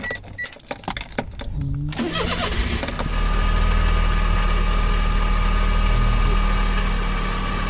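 A kei car's engine is cranked and catches about two seconds in, then idles steadily. Light clicking and rattling come before it starts.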